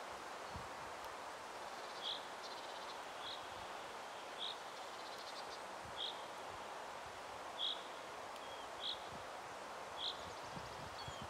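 A bird repeating a short, high chirp about once every second and a half over a steady hiss of woodland ambience.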